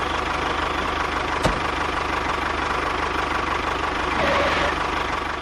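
Engine idling with a steady, rapid chugging, with one sharp knock about a second and a half in and a brief rise in pitch near the end.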